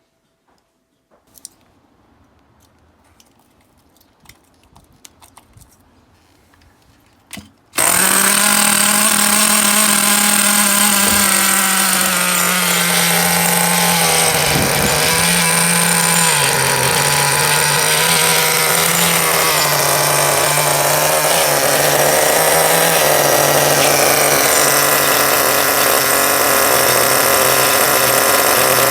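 Traxxas TRX 3.3 two-stroke nitro engine in a T-Maxx RC truck, coming in suddenly about eight seconds in and then running loudly and steadily, its pitch dipping briefly midway and settling a little lower. Before it comes in there are only a few faint clicks and knocks.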